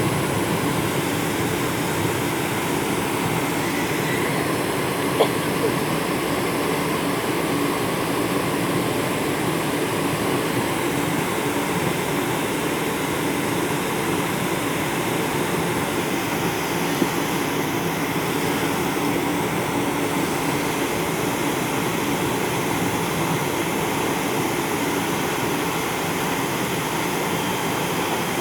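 Steady, loud rumble and rush of an airliner's jet engines and airflow, heard inside the passenger cabin, with a couple of brief clicks.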